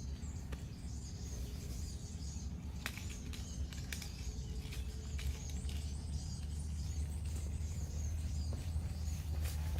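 Faint bird chirps in woodland over a steady low rumble, with a few light knocks scattered through.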